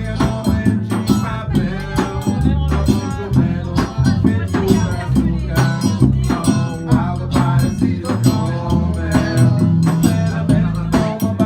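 A live band playing an upbeat song: a steady rhythm of shaken percussion over a moving bass line.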